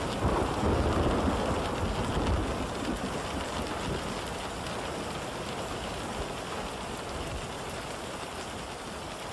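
Steady rain falling, with a low rumble that fades away over the first few seconds.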